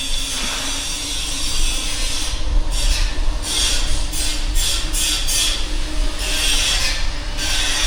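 Street noise heard from a moving bicycle: a steady low rumble of wind and rolling on the microphone, with a faint steady hum and hissing surges that come and go every second or so.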